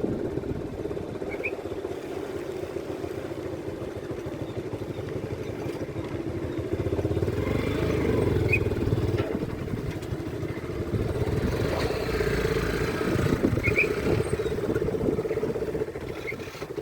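Motor vehicle engine running steadily on the move, with a low rumble that swells twice.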